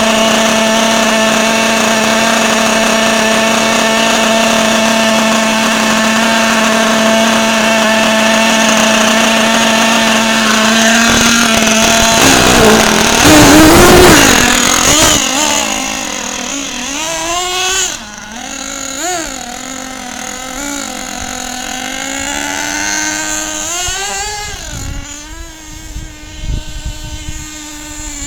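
Motor of an HPI Lightning Stadium Pro radio-controlled stadium truck. It holds a steady high-pitched whine for about twelve seconds, then rises and falls in pitch over and over as the truck speeds up and slows down.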